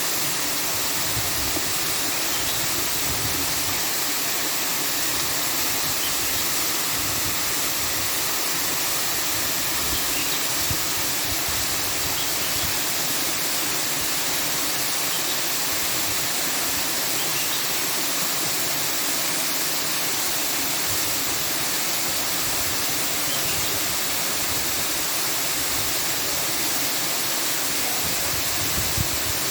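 Steady, even rushing noise with a hissing top and no breaks or changes in level.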